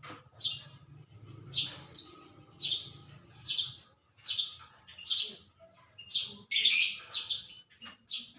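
A bird chirping over and over: about a dozen short, high chirps, roughly one every half second to a second, with a louder, longer call about two-thirds of the way through.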